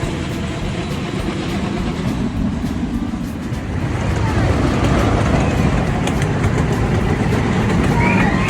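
Amusement-park ride train rolling along its track: a steady low rumble that grows louder about halfway through, with children's voices starting up near the end.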